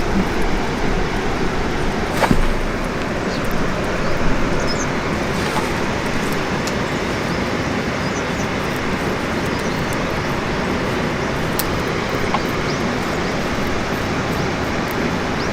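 Wood campfire burning: a steady rushing noise with scattered sharp crackles and pops, one louder pop about two seconds in.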